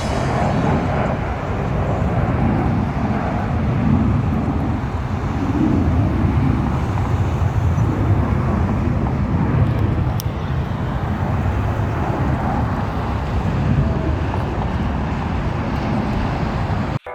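Steady outdoor rumbling noise, heaviest in the low range, with no distinct events.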